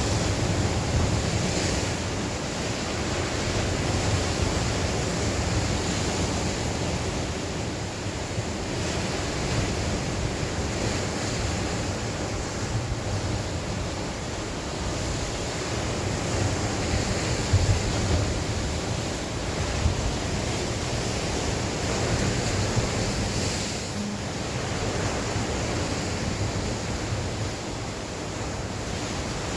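Sea waves breaking and washing on the shore, rising and falling in slow swells, with wind buffeting the microphone.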